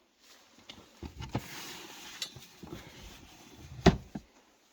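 Rustling and knocking as things are handled: a few knocks about a second in, a second or so of rustling or scraping, then one sharp, loud knock near the end.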